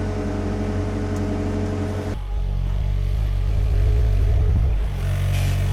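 Sany SY50U mini excavator's diesel engine running steadily while digging. About two seconds in the sound changes suddenly to a deeper, heavier tone.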